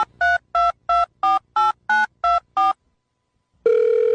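Telephone keypad touch-tones: nine quick beeps, about three a second, as a number is dialed. After a short pause a steady ringing tone starts near the end as the call goes through.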